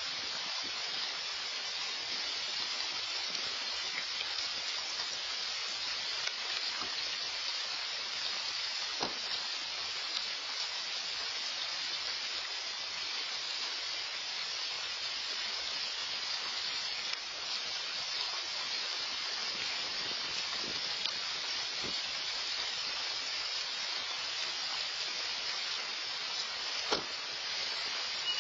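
Steady rain falling, an even hiss throughout, with a few faint isolated taps.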